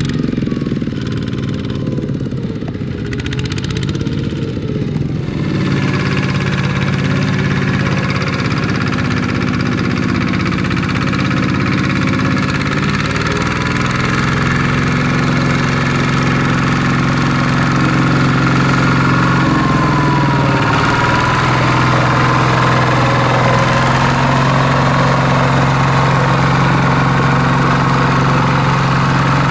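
Small tractor engine running steadily, its pitch dropping a step about 13 seconds in and dipping briefly then recovering about 20 seconds in.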